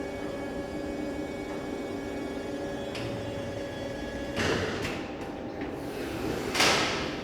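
Electric reach truck running with a steady motor whine, then two short rushing, clunking sounds about halfway through and near the end, the second the loudest.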